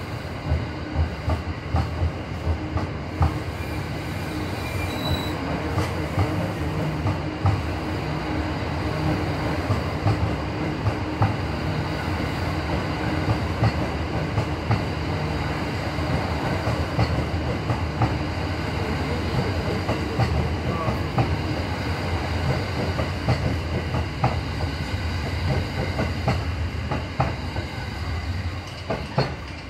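E26 series sleeper passenger cars rolling past as the train pulls out. Their wheels give a steady rumble with frequent sharp clicks over the rails. The sound drops off near the end as the last car passes.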